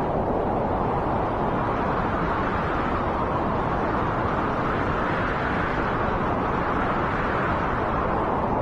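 Wind blowing steadily across the microphone: an even, rushing rumble with no let-up.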